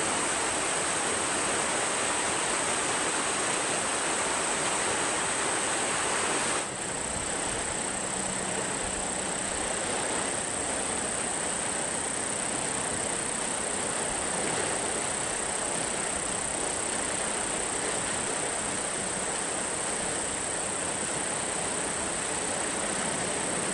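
Airliner engine noise: a steady rushing sound with a steady high whine over it, which changes abruptly for a moment about seven seconds in.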